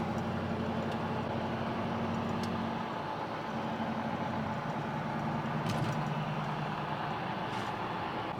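Steady vehicle engine and road noise: a low, even hum under a constant rush.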